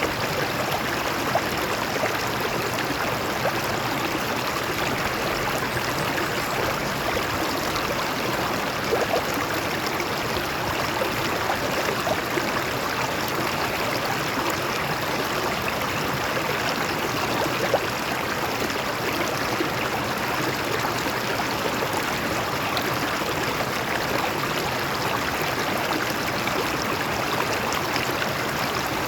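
A stream of water flowing steadily over rocks, an even rushing with small splashes and trickles through it.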